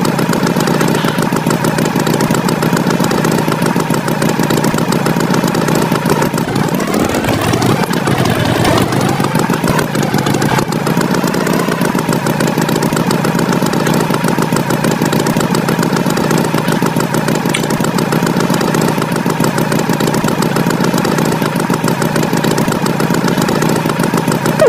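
Engine running steadily at an even pitch, with a brief rise and fall in pitch about seven seconds in.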